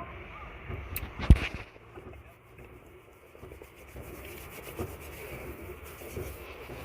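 A single sharp knock about a second in, just after a small click, over a steady low background rumble.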